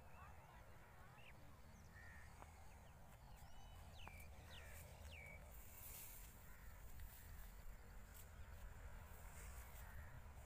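Faint outdoor ambience: a few short bird chirps, each hooking downward in pitch, in the first half, over a low rumble and some light high rustling later on.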